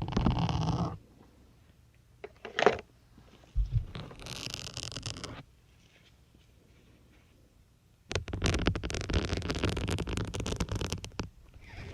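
Syringes pushed two at a time into a soft sponge on both sides of the microphone. They make scratchy, crunching bursts: a short one at the start, a sharp click near three seconds, another burst around four to five seconds, and a longer run of scratching from about eight to eleven seconds.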